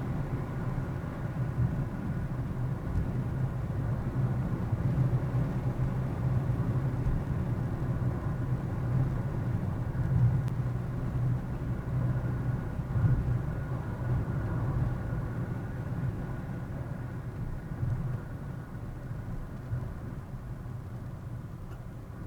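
Steady low rumble of a car on the move, engine and tyre noise heard from inside the cabin by a dashcam, easing off a little near the end.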